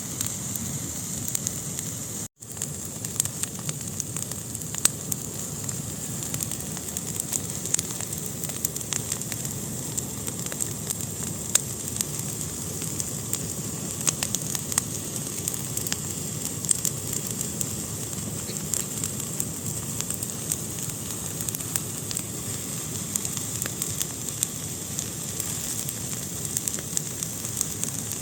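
Wood fire burning in a fireplace: a steady hiss with frequent sharp crackles and pops throughout. The sound cuts out for an instant about two seconds in.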